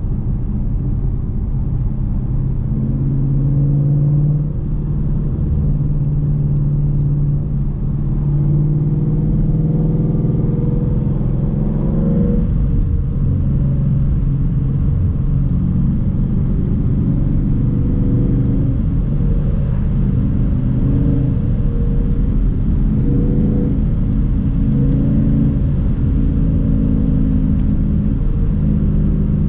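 Car engine and exhaust under hard acceleration through the gears. The engine note climbs and drops several times as it revs up and shifts, over a steady low road rumble.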